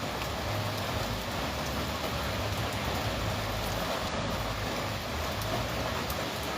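Steady rain falling: an even hiss with faint drop ticks here and there.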